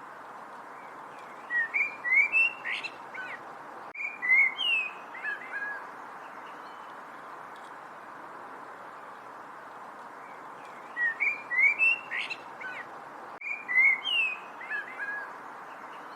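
Songbird chirping: a bout of quick chirps and short whistled gliding notes starts about one and a half seconds in. The identical bout comes again about nine and a half seconds later, as if looped, over a steady background hiss.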